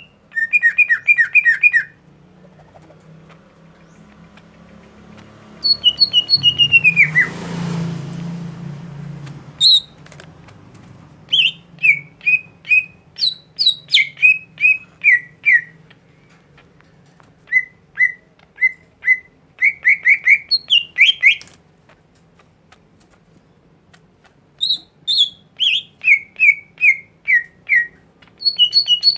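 A songbird singing in phrases of rapid, repeated short down-slurred whistled notes, each phrase a second or two long with short pauses between. About seven seconds in a brief rushing noise sounds under the song.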